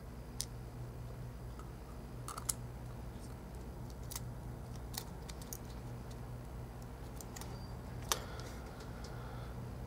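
Scattered light clicks and taps as an iPhone 4 logic board and small parts are handled and set into the phone's frame, over a steady low electrical hum.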